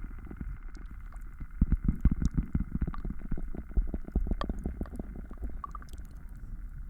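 Layered, close-miked ASMR trigger sounds: a dense run of soft, irregular low taps and rustles, with faint scattered clicks above them.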